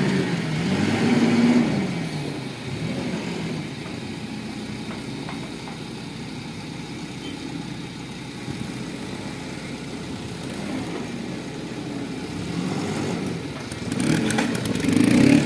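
Heavy vehicle's diesel engine revving up and dropping back, running steadily under load, then revving up again near the end.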